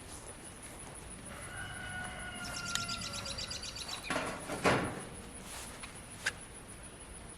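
A rooster crowing once, a long held call, with a rapid high ticking over its tail. Just after it comes a loud rustling thump, then a single sharp click.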